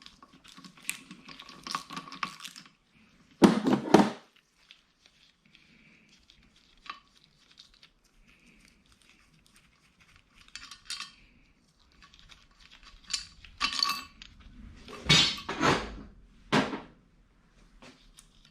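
Metal valve-train parts and tools clinking and clattering on a Honda B18C cylinder head as valve springs and retainers are compressed and taken off. Between quieter stretches come a few sharp metallic knocks, the loudest about three and a half seconds in and again late on.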